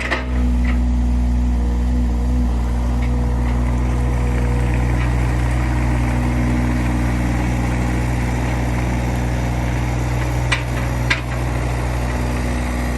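2015 John Deere 35G compact excavator's diesel engine running steadily at idle, with two brief clicks a little past two-thirds of the way through.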